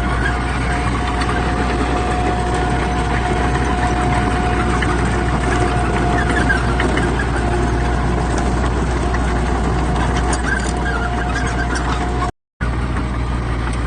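Heavy diesel earthmoving machinery running steadily, a deep engine rumble with a thin, steady whine over it. The sound cuts out for an instant near the end.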